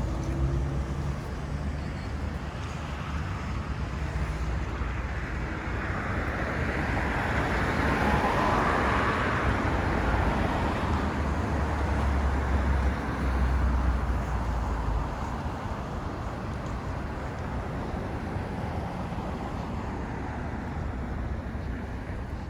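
A vehicle passing on a city street: the traffic noise swells to a peak about eight seconds in, then fades, over a steady low rumble.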